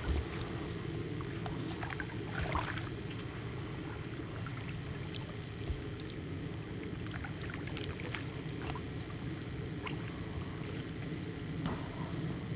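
Canoe moving on the water: a steady low hum with light scattered splashes and ticks, a small cluster of them about two seconds in.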